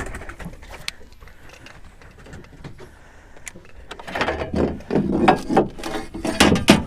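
Knocks and flapping as a caught speckled trout is handled and dropped into the boat's fish box. It is quiet at first, with a few small clicks, and a dense run of knocks and rustles starts about four seconds in.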